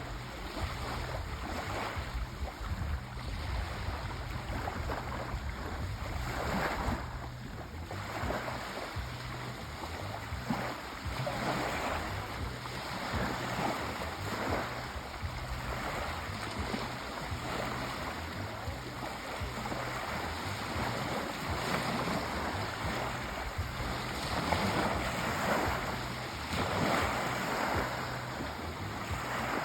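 Sea waves washing onto a shore, the surf swelling and falling back every few seconds in a steady, continuous wash.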